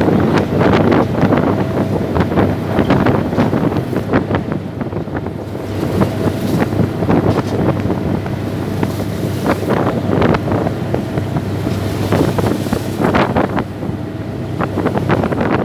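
Wind buffeting the microphone in uneven gusts over the steady hum of a boat's engine and moving water.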